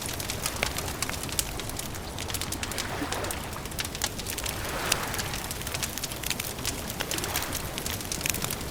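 Wood campfire crackling, with many small irregular pops and snaps over a steady hiss.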